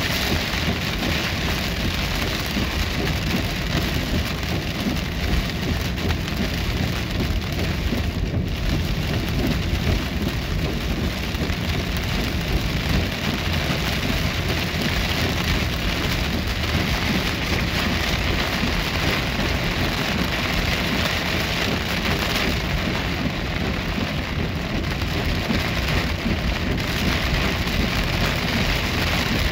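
Heavy rain pelting the car's windshield and roof, heard from inside the moving car as a steady hiss, over a low steady rumble of the car on the wet road.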